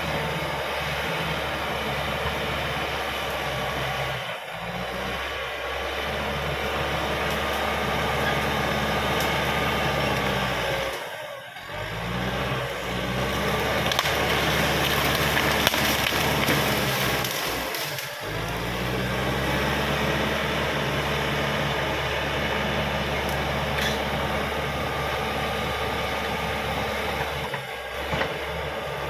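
Crawler bulldozer's diesel engine running under load along with a broad mechanical noise. The engine's pitch dips and picks back up a few times as the load changes.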